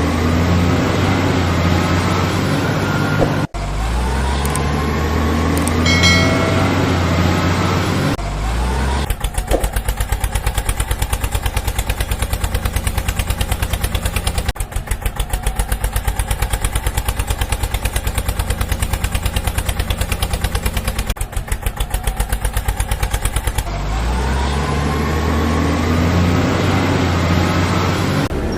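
Heavy diesel vehicle engine running and revving, with rising pitch several times. For a long middle stretch it settles into a fast, even chugging before revving again near the end.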